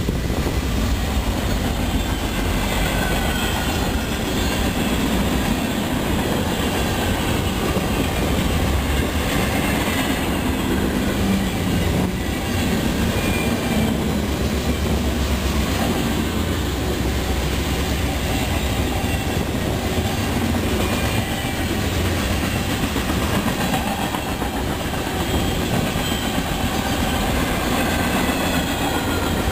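Freight train cars rolling past steadily on the rails, with a clickety-clack of wheels and faint, thin wheel squeal over the rumble.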